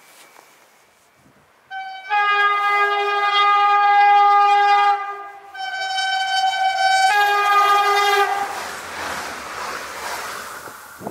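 Stadler Flirt multiple-unit train sounding its chord horn: one long blast, then two shorter ones. The horn gives way to the rushing noise of the train coming through.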